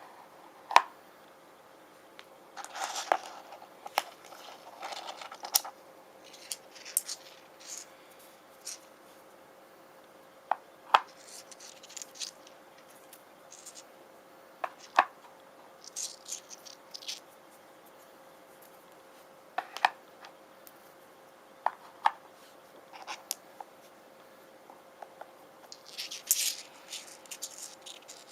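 Rune stones handled, tapped and scratched with fingernails: irregular sharp clicks and short scratchy rubs, a few at a time with pauses between.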